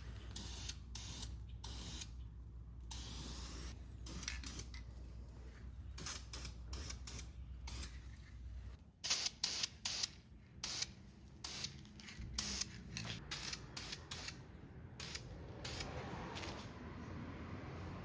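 Short, irregular bursts of spray paint hissing as black primer and enamel go onto the plane's parts. A steady low hum runs underneath and stops about halfway through.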